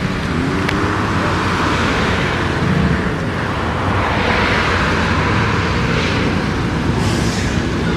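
Several cars' engines running at low speed as a line of cars rolls into a car meet: a steady mix of engine rumble and tyre and traffic noise.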